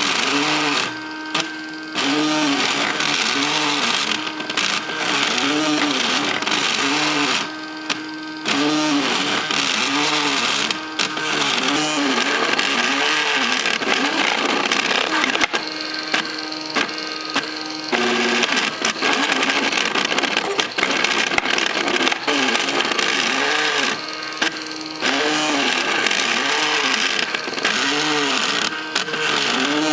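MakerBot 3D printer's stepper motors whining as the print head moves back and forth, the pitch rising and falling with each move and now and then holding steady, over a steady hiss. It drops briefly quieter a few times.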